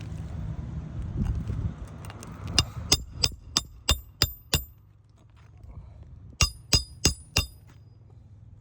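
Hammer driving roofing nails into old asphalt shingles: a run of seven ringing strikes about three a second, a pause, then four more. Each blow knocks granules loose from the brittle old shingles.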